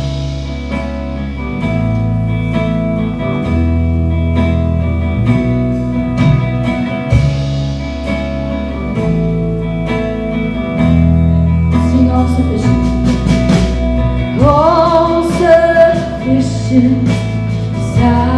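Live worship band playing an instrumental passage: electric guitar, bass holding chords that change every second or two, and steady drum hits. About 14 seconds in, a wavering melody line with vibrato comes in over the band.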